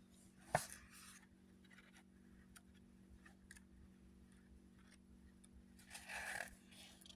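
Faint paper-handling sounds from a small comic-book booklet: a sharp tap about half a second in with a short rustle, a few light ticks, then a longer rustle of paper near the end.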